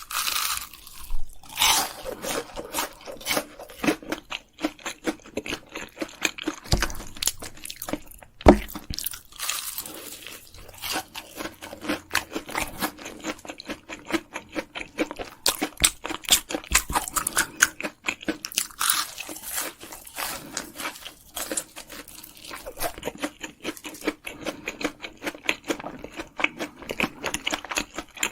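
Close-up sounds of someone eating spicy Korean food: steady, irregular crunching and chewing, with a sharp knock about eight seconds in.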